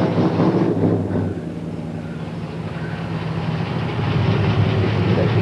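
Car engine running with a steady, rapidly pulsing low rumble that eases off about a second and a half in and builds back up toward the end.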